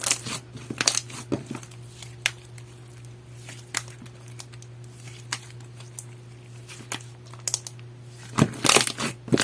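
Clear water-jelly slime being squished and worked by hand, giving sharp crackling clicks and pops: a few at the start, scattered single clicks through the middle, then a dense run of rapid clicks near the end. A steady low hum sits underneath.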